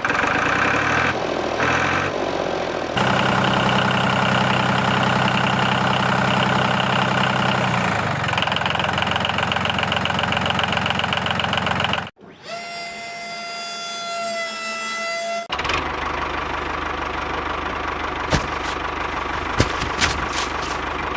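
Small electric motors of a homemade model tractor and machine running with a steady hum and whine, in several clips that cut from one to the next; a cleaner high whine sits in the middle, and the last stretch has a noisier running sound with scattered clicks.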